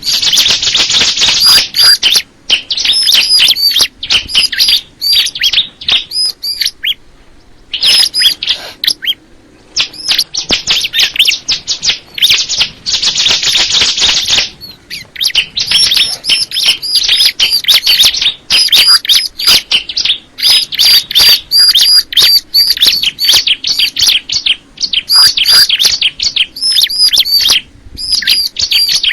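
Ciblek kristal, a small prinia, singing loudly in fast runs of repeated high chirps. Denser, buzzier trills come at the start and again in the middle, with a couple of brief pauses between runs.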